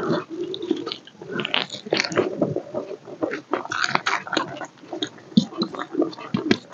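Close-miked chewing and mouth smacking of a handful of rice and chicken curry, an irregular run of short smacks and clicks.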